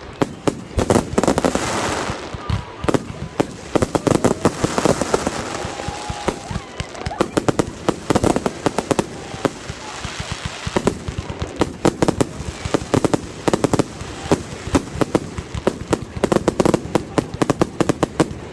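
Fireworks going off in a rapid, irregular string of sharp pops and crackles.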